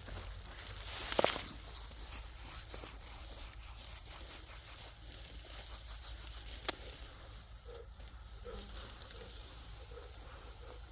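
Dry wheat stalks rustling and tearing as they are harvested by hand, in irregular strokes, with a louder stroke about a second in and a sharp click a little past the middle.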